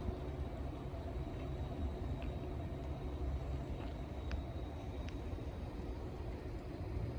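Low, steady rumble of a ship's engine on the canal, with a few faint short clicks in the middle.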